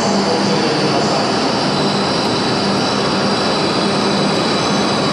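An E7/W7-series Hokuriku Shinkansen train pulling into the platform, its cars rolling past with a steady rush of noise and a high whine running through it.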